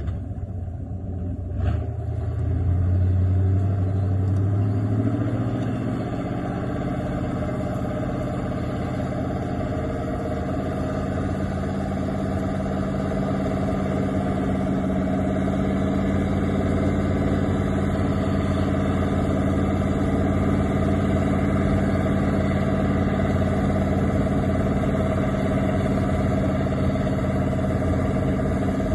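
Linn tractor's engine running steadily while pulling a drag over frozen muskeg. The engine note shifts in the first few seconds, with a single knock about two seconds in, then holds steady.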